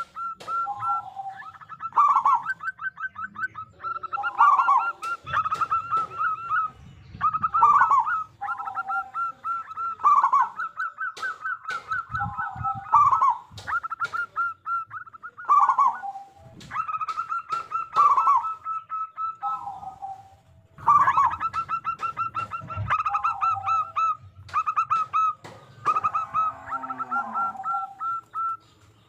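Zebra doves (perkutut) cooing: phrases of rapid staccato coos ending in a stronger, lower note. A new phrase starts every two seconds or so, and phrases often overlap.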